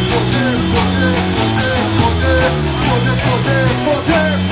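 A rock band playing live: drums with steady cymbal hits about twice a second, over bass and guitar, with short sliding melodic notes.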